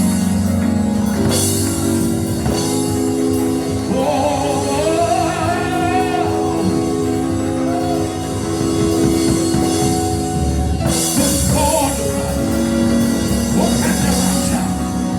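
Church praise band playing live, with organ or keyboard chords, drums and bass under wordless or unclear singing.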